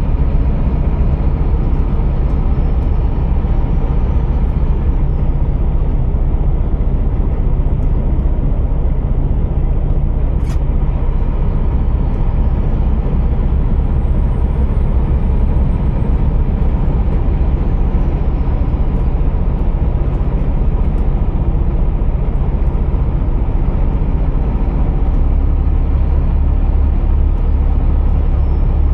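Scania R480 truck's engine running, a steady low drone that deepens and strengthens in the last few seconds, with a single sharp click about ten seconds in.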